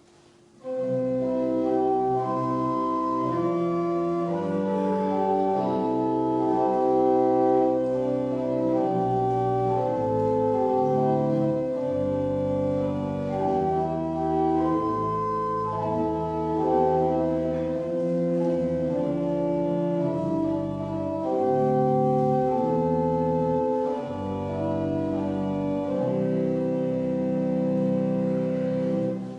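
Organ playing slow sustained chords, starting about half a second in and stopping just before the end, as an introduction to the hymn that is sung next.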